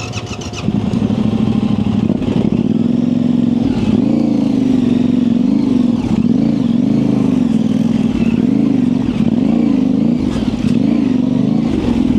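2024 Yamaha Tenere 700's 689 cc parallel-twin engine, fitted with an aftermarket high exhaust, running at low revs under short, repeated throttle openings, its pitch rising and falling about once a second. It gets louder about a second in, as the bike picks its way through tight, technical single track.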